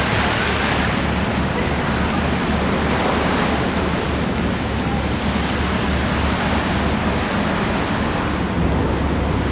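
Steady rush of sea water and wind buffeting the microphone aboard a moving boat, with a steady low rumble underneath.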